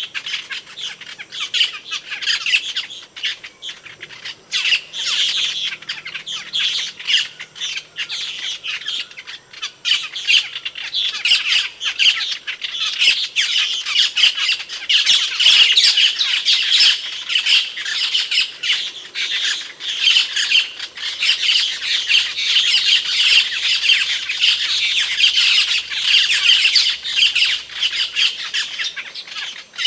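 Asian glossy starling calling: a dense, unbroken stream of sharp, high-pitched notes, growing busier from about ten seconds in.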